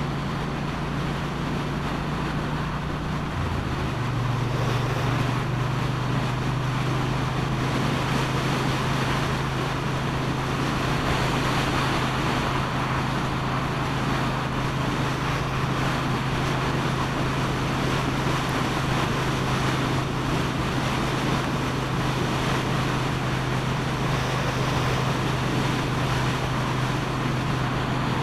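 Motorcycle engine running steadily under way, with wind and road noise. About three and a half seconds in, the engine note shifts and grows a little louder, then holds steady.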